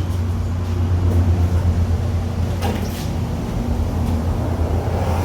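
Steady low hum of the box truck's diesel engine idling, with a few faint knocks about one second and three seconds in.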